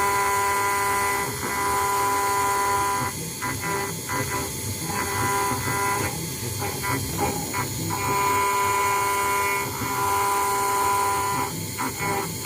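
CNC engraving router cutting brass: a steady machine whine that alternates every few seconds with choppier, stuttering stretches as the cutting passes change.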